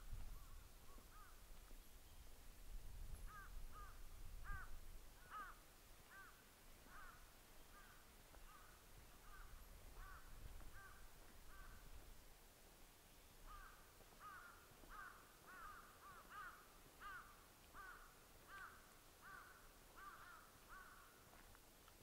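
A bird calling faintly: short notes repeated steadily, about one to two a second, in two long runs broken by a brief pause about halfway through.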